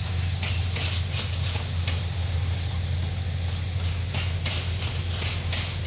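Aurizon 2800 class diesel-electric locomotive running after its startup: a steady, deep engine drone, with irregular patches of higher hiss over it.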